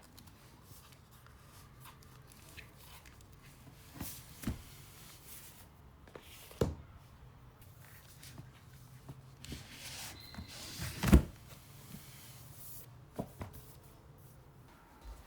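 Household handling sounds in a small room: several separate knocks and thuds as things are moved and set down, the loudest about eleven seconds in, just after a second or so of rustling or sliding. A low steady hum lies under it all.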